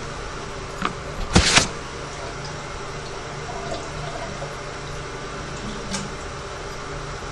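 Water running and bubbling in a freshly jetted sewer line, picked up by the inspection camera as a steady noise with a low hum. A brief loud rush of noise cuts in about a second and a half in.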